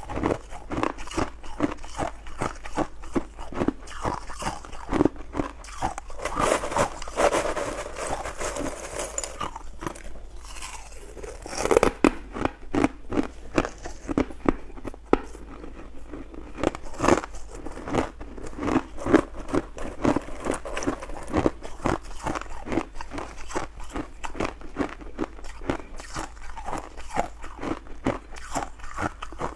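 Ice being bitten and chewed close to the microphone: a quick run of sharp crunches, denser and more continuous around seven seconds in, with a brief pause near ten seconds.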